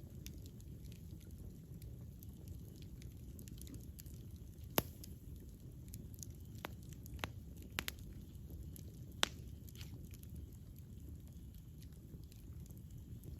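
Wood fire burning with a steady low rumble and scattered small crackles. A few sharper pops stand out about five, seven, eight and nine seconds in.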